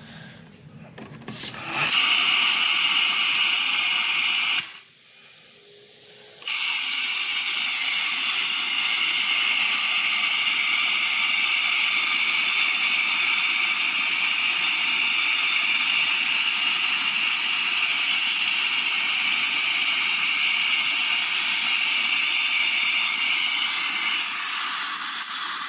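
Central vacuum system pulling air hard through a working water lift gauge at a wall inlet midway along the system, a loud steady rushing hiss. It starts about two seconds in, drops out briefly about five seconds in, then runs steadily again. The reading is about 75–76 inches of water lift, only a small loss through the pipe.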